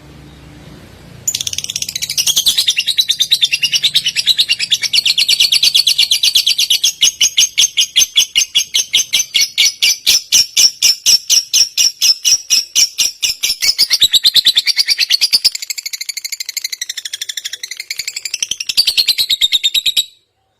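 Recorded songbird song used as a tutor track for shamas: a long run of rapid, sharp, repeated high notes that starts abruptly about a second in, turns into more varied wavering notes in the last several seconds, and cuts off suddenly near the end.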